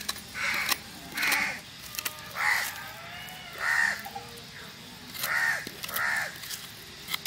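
A crow cawing over and over: about six harsh calls, each short and about a second apart.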